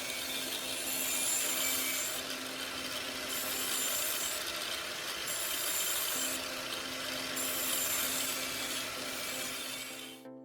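An angle grinder runs with a steady hum while a knife blade is ground on its abrasive disc to raise a basic edge. The high grinding hiss swells and eases about every two seconds, and cuts off abruptly near the end.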